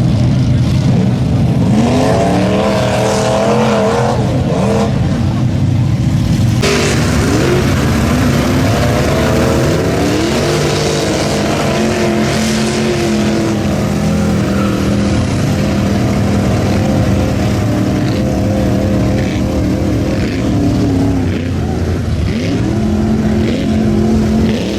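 Mud bog truck engines revving hard, the pitch climbing and dropping again and again over a steadier engine drone. The sound changes abruptly about seven seconds in.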